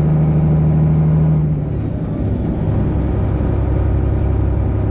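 Detroit Diesel 12.7-litre engine of a Freightliner Classic XL semi truck, heard from inside the cab. It runs steadily, then about a second and a half in its pitch drops and the sound dips briefly before it settles into a lower, steady note.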